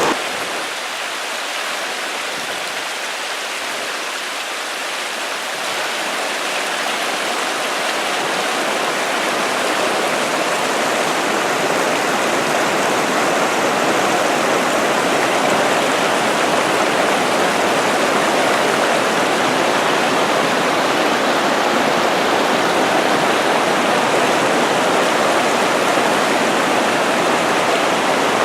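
Fast-flowing river water rushing steadily, growing a little louder over the first several seconds.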